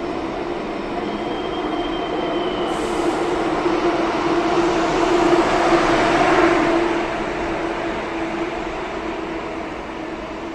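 Electric train moving through the station, the noise of motors and wheels swelling to a peak about six seconds in and then fading, with a steady hum underneath. A faint high squeal is heard early, then a sudden high hiss starts about three seconds in.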